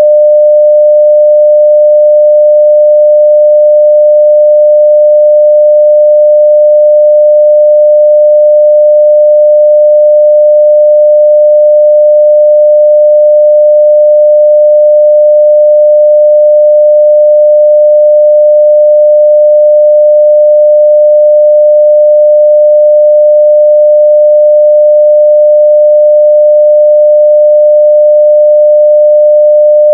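A steady 600 Hz sine-wave test tone at full level (0 dB), one pure unbroken pitch.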